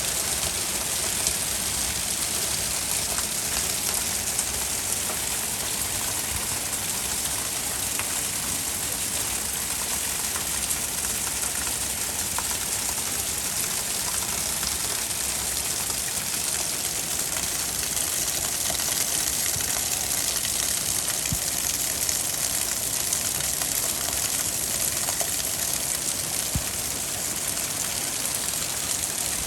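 Heavy rain pouring down steadily in a thunderstorm, with a few sharp ticks of drops striking a surface scattered through it.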